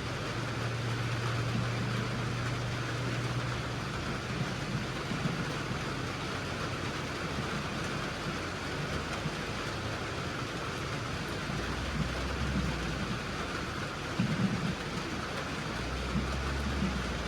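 Steady rain with a vehicle engine running at a low, even hum.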